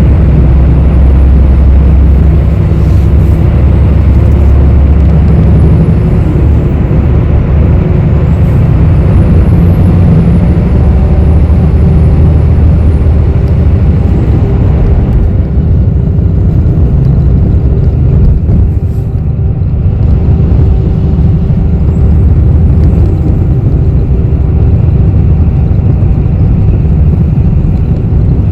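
Interior noise of a moving city bus: a steady, loud low rumble of engine and road. About halfway through, the higher road hiss falls away, leaving the low rumble and a faint steady hum.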